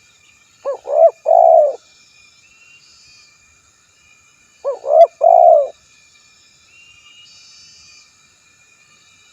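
Male spotted dove cooing its territorial call twice, about four seconds apart: each call two short coos followed by a longer coo. Faint insect buzzing behind.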